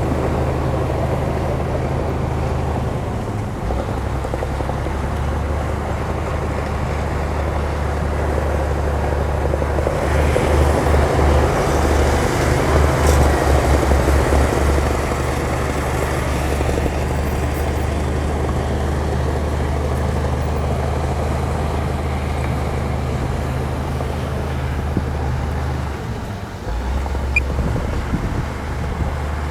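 Diesel engine of a heavy earthmoving machine running steadily, with a louder, throbbing stretch about ten to fifteen seconds in and a brief dip near the end.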